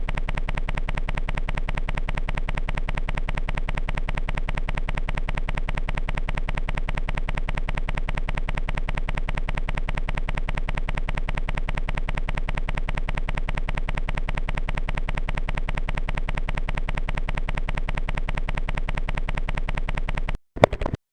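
A fast, perfectly even, machine-like pulse with a steady pitch, running without change and cutting off suddenly just before the end, followed by a brief burst.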